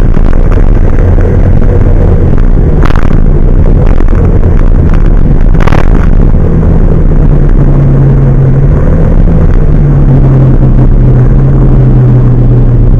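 Large truck's engine running loud and steady, its note rising partway through as the revs pick up. Two brief sharp noises cut in about three and six seconds in.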